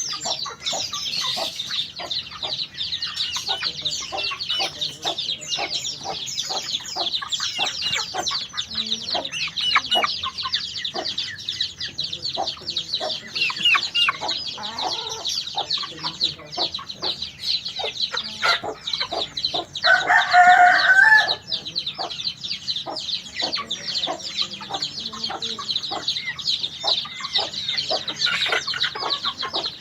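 White-eye (pleci) singing a fast, continuous twittering song of high chirps. About two-thirds of the way through, a louder, lower call lasts about a second and a half.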